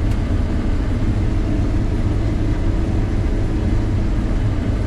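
Combine harvester running at a steady drone while cutting soybeans, a low, even rumble with no change in pitch or level.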